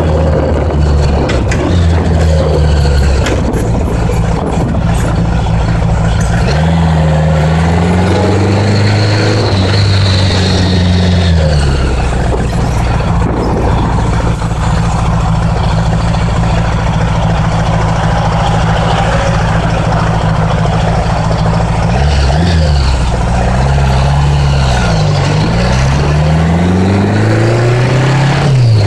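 1980s Honda Gold Wing motorcycle engine running under way, with wind rushing past. The engine pitch climbs about seven seconds in, holds steady, then falls and climbs again several times late on, and rises once more near the end.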